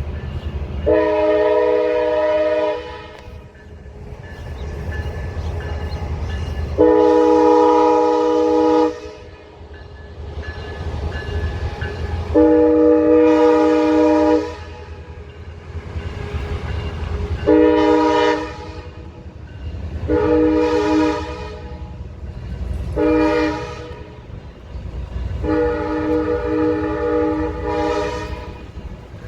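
Locomotive horn sounding a chord of several notes in seven blasts: three long ones, then three shorter ones, ending with a long one. A low, steady rumble of the train runs underneath.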